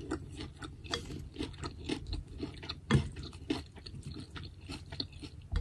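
A person chewing food close to the microphone: a run of small, irregular wet clicks and mouth sounds, one louder click about three seconds in.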